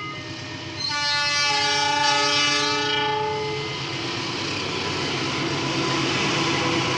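Indonesian diesel locomotive's multi-note horn sounds once for about three seconds, starting about a second in, and then gives way to the steady rumble and rush of the train running past.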